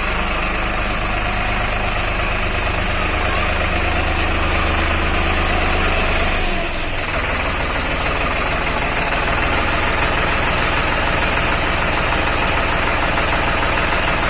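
Solis Yanmar 50 hp 4WD tractor's diesel engine running steadily, with a brief dip in the sound about halfway through.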